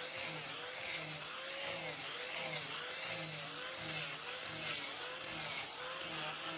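A motor running steadily, its pitch rising and falling in a regular cycle a little more than once a second, with a hiss that swells in step.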